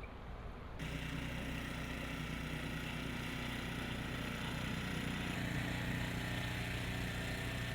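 Wind noise on the microphone, then from about a second in an engine running steadily.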